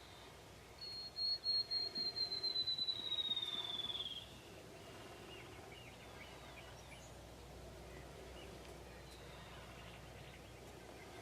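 A songbird's whistled song: a run of clear high notes that start spaced and speed up into a trill, sliding slightly down in pitch over about three seconds. Faint chirps from other birds follow.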